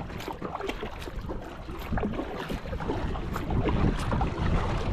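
Gusty wind rumbling on the microphone over small, irregular splashes of water from paddling a small craft, with the wind picking up ahead of an approaching thunderstorm.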